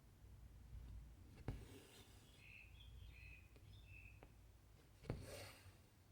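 Needle clicking through stiff cross-stitch fabric and cotton thread drawn through it with a short hissing rasp, twice, about three and a half seconds apart.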